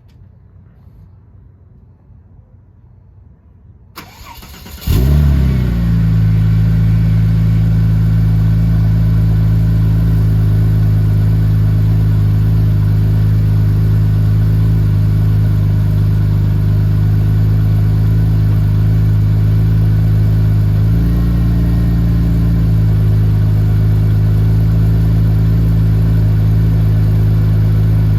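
2001 Porsche 911 Turbo's twin-turbo flat-six cold-started: the starter cranks briefly about four seconds in, the engine catches with a short flare, then settles into a loud, steady idle whose note shifts slightly near two-thirds of the way through.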